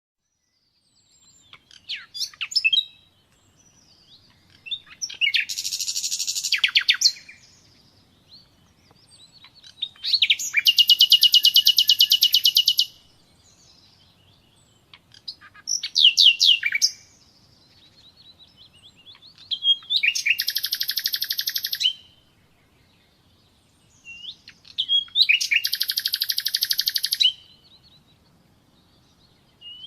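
Common nightingale singing: six separate phrases of about one to three seconds each, with short pauses between them. Several phrases are rapid trills of fast repeated notes, and the others are shorter whistled or chirped figures.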